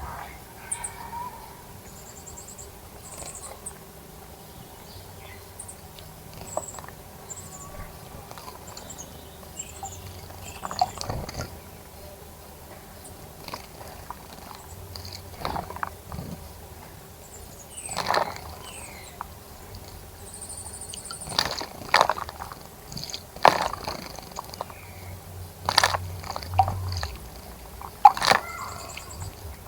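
Wild birds giving short high chirps, with brief sharp splashes of birds bathing in a bird bath, coming more often and louder in the second half.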